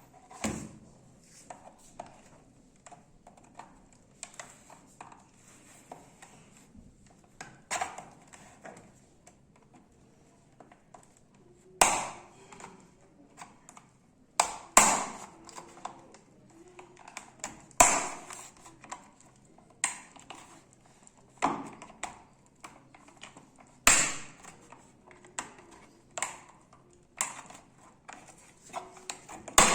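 Plastic back panel of a monitor being pried open with a screwdriver: irregular sharp clicks and snaps as the clips pop free, with smaller ticks and scrapes between. The loudest snaps come every few seconds in the second half.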